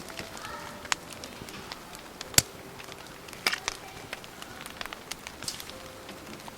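Wood campfire crackling, with scattered sharp pops over a low hiss and one loud pop about two and a half seconds in.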